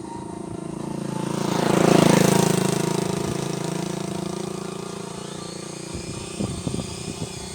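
A vehicle passing by: its sound swells to a peak about two seconds in and then slowly fades away. A few short knocks follow near the end.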